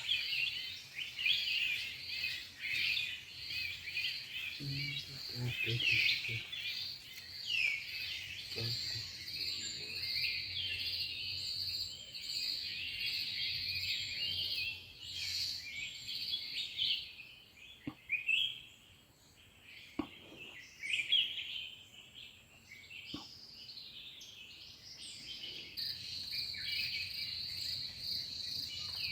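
Many small birds chirping and calling at once over a steady, high insect drone of cicadas or crickets. The drone drops away about halfway through and comes back near the end.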